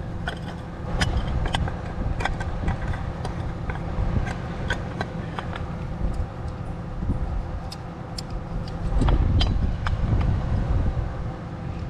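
Pliers clicking and clinking against metal as they are fitted and worked on a fastener of scrap metal, a sharp tick every so often. Under it runs a steady low rumble that grows louder about nine seconds in.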